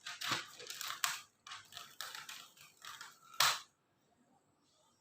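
Handling noises: a run of short rustles and knocks from things being picked up and moved, the loudest about three and a half seconds in.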